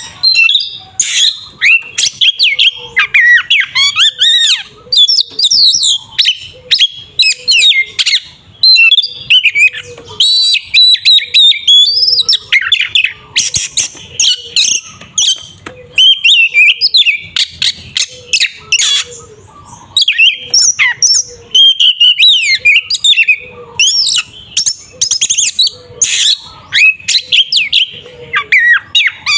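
Oriental magpie-robin (kacer) in loud, nearly unbroken fighting song: a rapid jumble of rich whistles, slurred rising and falling notes, trills and harsh chattering phrases, with only brief pauses.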